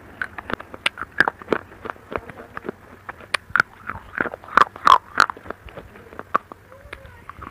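Slate chips being crunched and chewed close to an earphone microphone: irregular sharp cracks several times a second, loudest in a cluster about two-thirds of the way in, then thinning out near the end.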